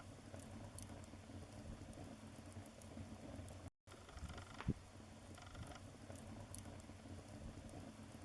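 Wood fire crackling faintly in a fireplace: a low steady rumble of flames with small scattered snaps and one sharper pop about four and a half seconds in. The sound cuts out completely for an instant a little before that pop.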